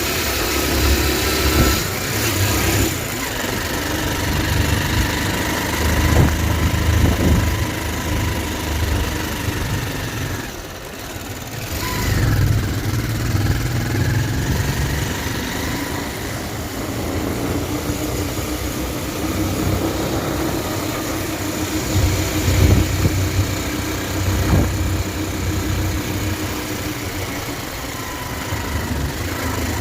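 Motorcycle engine running on the move, its pitch rising and falling with the throttle, easing off briefly about eleven seconds in.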